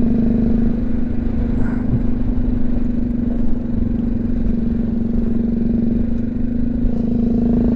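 BMW G310GS single-cylinder engine running at a steady cruise, heard from a helmet mic through low wind rumble.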